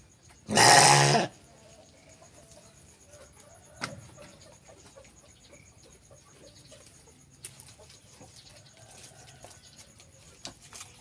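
A sheep bleats once, loudly, about half a second in, lasting under a second. Afterwards only faint scattered clicks and rustles, with one sharper click about four seconds in.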